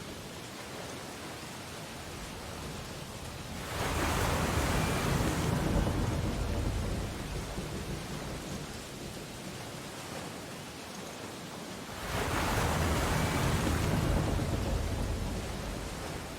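Ocean waves breaking on a beach: two waves crash, one about four seconds in and one about twelve seconds in, each starting suddenly and washing out over a few seconds, over a steady surf hiss.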